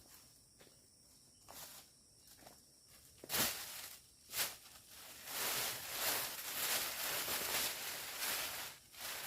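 Footsteps and rustling through forest undergrowth, with two sharp snaps or knocks about three and four seconds in, then a few seconds of steady crunching and rustling. A faint steady insect hum runs underneath.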